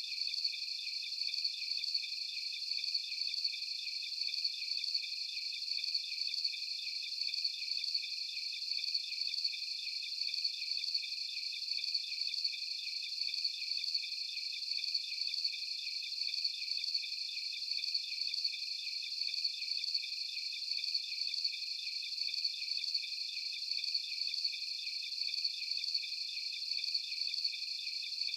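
A night chorus of crickets: a steady, high-pitched chirring that pulses in an even rhythm, with no lower sounds beneath it.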